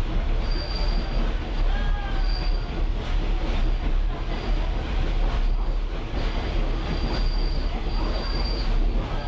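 Caboose rolling along the rails with a steady low rumble, its wheels giving short high-pitched squeals again and again.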